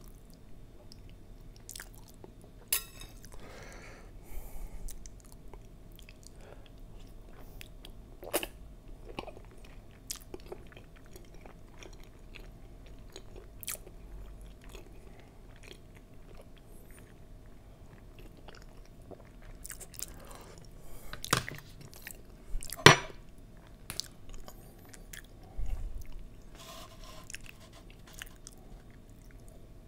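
Close-miked chewing and mouth sounds of someone eating soft desserts, brazo de mercedes and cathedral window gelatin, with scattered short clicks of a metal knife against food and dish. The sharpest clicks come a little past twenty seconds in, and near the end there are sipping and swallowing sounds from a glass.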